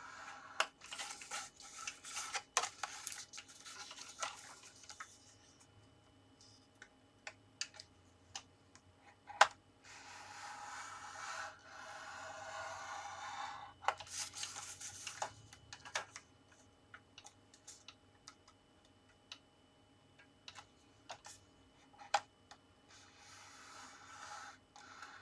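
Card being scored on a scoreboard: several scraping strokes of a scoring tool drawn along the grooves, between scattered taps and clicks as the card is moved and lined up.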